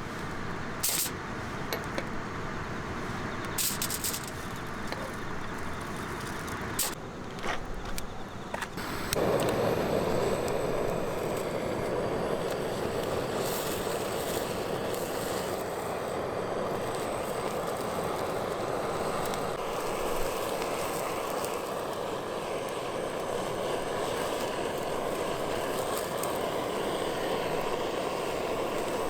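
Wood fire crackling with a few sharp snaps, then from about nine seconds in a steady, louder rushing noise takes over and holds.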